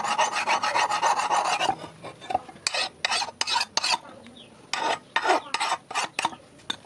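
A hand file or similar abrasive scraping a steel knife blade: quick even strokes, about eight a second, for the first second and a half, then slower single strokes in two runs of about four.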